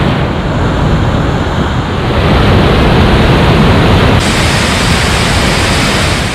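Waterfall in heavy spring flow: a loud, steady rush of falling water that turns brighter about four seconds in.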